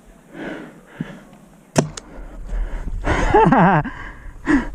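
Two sharp pops of Tippmann TiPX paintball pistols firing, close together, about two seconds in, followed by a drawn-out, wavering vocal cry from a player and a short call near the end.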